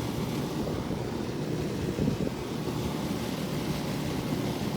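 Outdoor central air conditioner condenser units running, a steady hum of compressor and fan.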